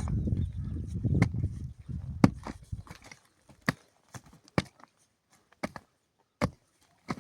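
A series of sharp knocks, irregularly spaced at roughly one or two a second, like wood being chopped or struck. For the first couple of seconds a louder low rustling and crunching runs under them.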